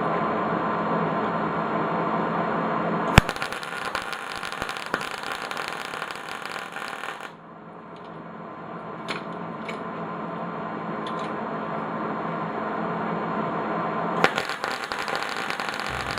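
Electric arc welder tack-welding steel chain repair links: the arc strikes with a sharp click and crackles and sizzles for about four seconds, stops, then strikes again for a second tack weld of about three seconds near the end. A steady hum runs before the first weld.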